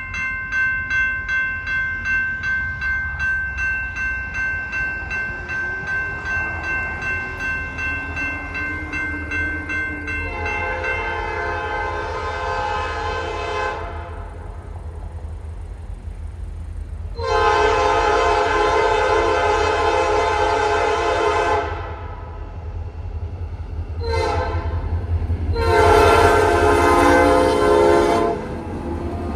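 Railroad crossing bell ringing rapidly, then a Norfolk Southern locomotive's horn sounding the grade-crossing signal: two long blasts, a short one and a final long one, over the low rumble of the approaching train.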